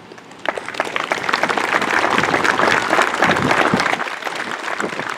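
Crowd applauding, starting about half a second in, building to a peak and easing off toward the end.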